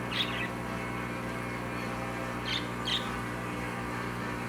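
A bird chirping briefly three times, once near the start and twice close together a little past the middle, over a steady low electrical hum.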